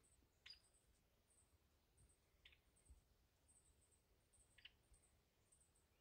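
Near silence with faint small-bird chips: three short high calls about two seconds apart, over a faint high-pitched repeating chirping.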